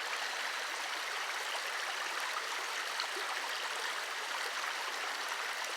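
Steady rushing of a rainforest river flowing over rocks, an even, unbroken water noise.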